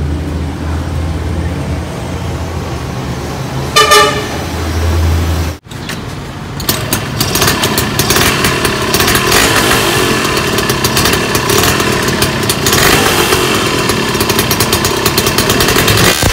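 A vehicle horn toots once, briefly, about four seconds in. After a cut, the Suzuki Crystal Jet 110's two-stroke single-cylinder engine runs and is revved, its loudness rising and falling.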